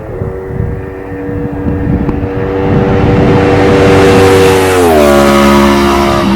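A 2015 Yamaha R1's crossplane inline-four, fitted with an Akrapovic exhaust and a de-cat link pipe, passing by at a steady speed. The engine note grows to its loudest about four seconds in, then its pitch drops as the bike goes past.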